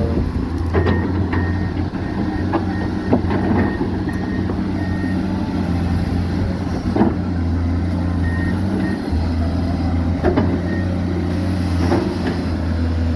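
Excavator's diesel engine running steadily at a low hum, with several knocks from the machine working. Short high beeps come in quick runs during the first five seconds and again briefly after eight seconds.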